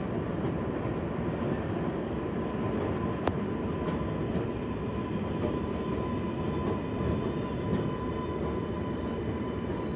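New York City subway train running at an elevated station: a steady rumble of wheels and car bodies with a faint high steady whine. There is a single sharp click about a third of the way through.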